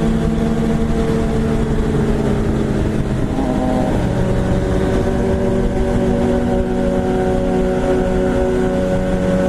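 BMW S1000RR sport bike's inline-four engine under way, with wind rushing over the helmet microphone. The engine note eases down for the first few seconds, climbs about three seconds in, then holds a steady cruising pitch.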